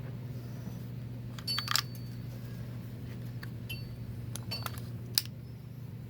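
Metal parts of a 4L60-E automatic transmission clinking against each other while it is taken apart: a few groups of sharp metallic clinks, the sharpest about five seconds in, over a steady low hum.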